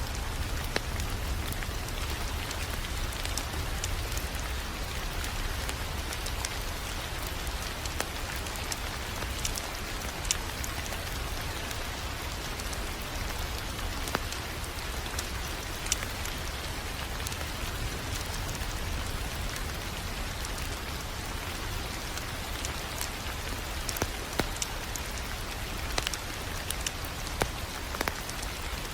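Crackling fireplace fire: a steady hiss and low rumble with scattered sharp pops and snaps.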